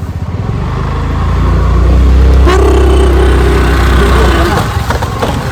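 Motorcycle engine accelerating away: it grows louder about half a second in, runs hard and steady through the middle, then eases off near the end.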